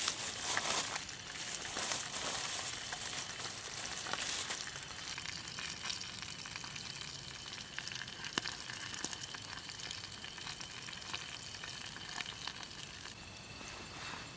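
Pieces of eel frying in hot oil in a small pot: a steady sizzle with many sharp pops and crackles, busiest in the first few seconds and then settling.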